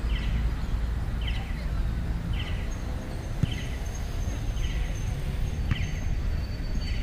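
A bird repeating the same short chirping call about once a second, over a steady low outdoor rumble.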